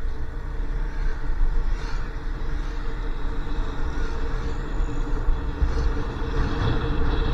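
Motorcycle engine running at a steady cruising speed, with low wind rumble on the microphone.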